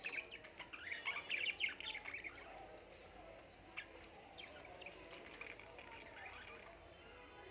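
Birds calling in short, high chirps and squawks, a busy flurry in the first two and a half seconds, then scattered calls.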